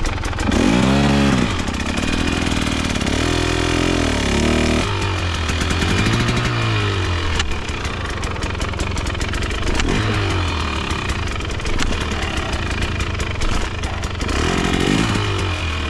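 KTM dirt bike engine revving up and down in repeated swells, about five of them, over a steady mechanical clatter.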